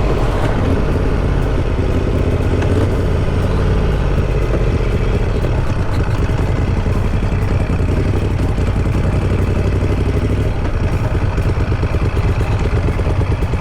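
Moto Guzzi Griso 1200's transverse V-twin engine running steadily while the motorcycle is ridden.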